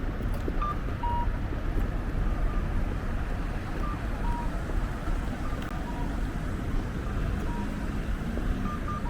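Street ambience: a steady low rumble of traffic or wind, with faint, short electronic beeps at two pitches scattered irregularly throughout.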